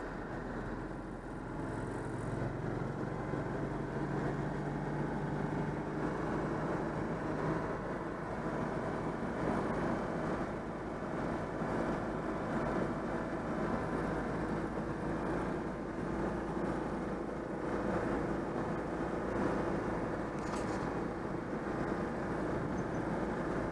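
Citroën 2CV's air-cooled flat-twin engine running steadily while the car drives along, with road noise. The freshly overhauled engine is running smoothly, with nothing amiss.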